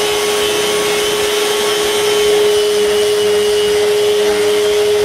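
Electric power sander running steadily, sanding a plywood tabletop with birch edging: a steady high hum over a loud hiss.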